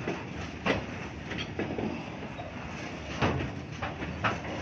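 Goods train's open freight wagons rolling past close by: a steady rumble of wheels on rail, broken by several sharp clanks at irregular intervals, the loudest just under a second in and about three seconds in.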